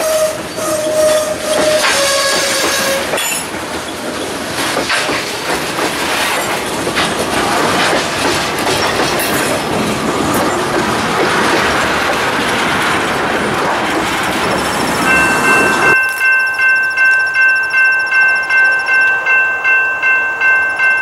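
Freight cars rolling past close by, wheels clicking over rail joints, with a wheel squeal for the first few seconds. About sixteen seconds in it cuts to a grade-crossing bell ringing steadily, about two strokes a second.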